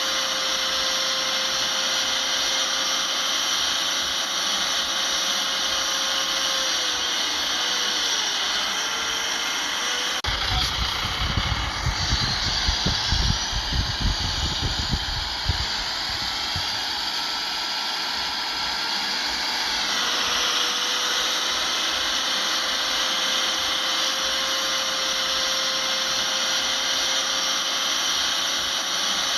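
A steady motor whine from machinery running. The pitch dips briefly about eight seconds in. From about ten seconds in there are several seconds of irregular low rumbling, and the pitch shifts a little until about twenty seconds in, then settles back.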